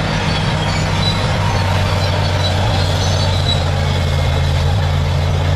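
Bulldozer's diesel engine running steadily under load, a constant low drone, with scattered short high squeals from the steel tracks.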